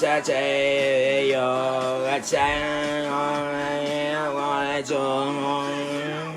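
A voice singing long held notes over a steady low accompanying note, the melody moving to a new pitch every second or so, with short breaks about every two and a half seconds.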